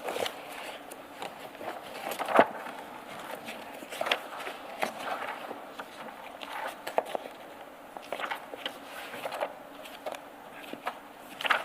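Paper pages and document files being handled and turned, with scattered irregular clicks and knocks, the loudest about two seconds in.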